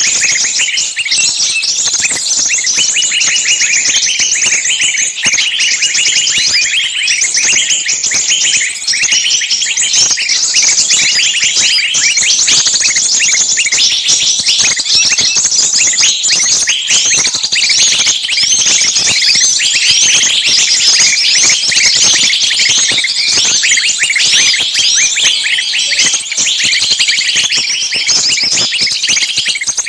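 Many small birds chirping at once in a dense, unbroken chorus of rapid, high, overlapping chirps.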